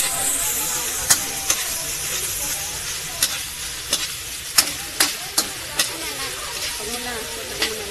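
Diced ham sizzling as it is sautéed in butter in a metal wok, a steady frying hiss. A metal spoon stirring it clinks and scrapes sharply against the pan at irregular intervals.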